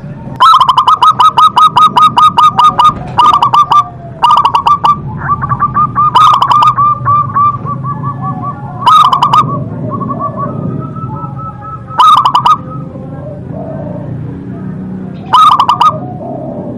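Zebra dove (perkutut) cooing loudly in repeated phrases, each a quick rolling run of evenly spaced notes, about seven phrases with short pauses between them.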